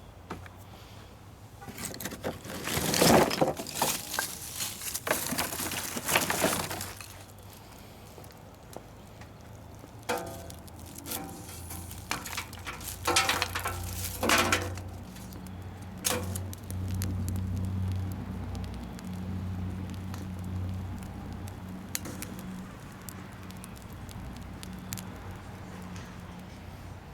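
Scraps of wood clattering and clinking as they are loaded into a rocket stove, in two bouts of rapid knocks, the second about ten seconds in. A low steady hum runs under the second half.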